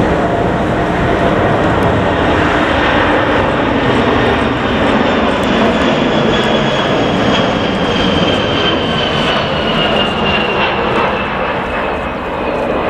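Jet airliner engines running loud and steady close by, with a high whine that slowly falls in pitch.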